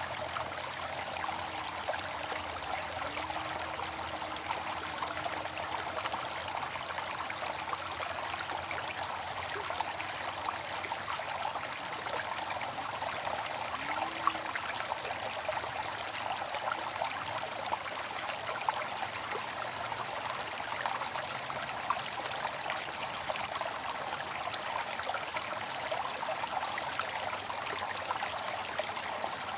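Water fountain splashing and trickling steadily, with a dense patter of small splashes.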